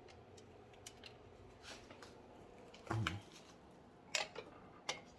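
Faint scattered clicks and light taps, with a brief low voiced murmur about three seconds in.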